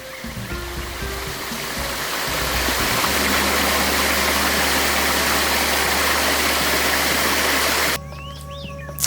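Steady rushing water that swells over the first few seconds, holds, and cuts off suddenly about eight seconds in, with background music of low sustained notes underneath.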